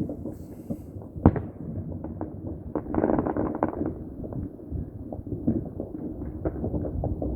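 Fireworks going off in a dense, irregular run of pops and bangs, with one sharp, loud bang about a second in and a thicker crackling burst near the middle.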